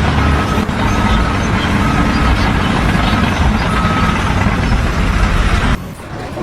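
Heavy vehicle or construction machine engine running, with a reversing alarm giving short high beeps a little less than once a second. The engine sound cuts off abruptly near the end.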